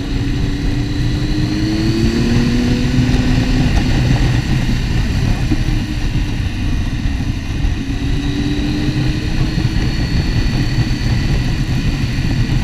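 Motorcycle engine running under way with steady rushing noise from the ride; the engine note rises as it pulls, once in the first few seconds and again about two-thirds of the way through.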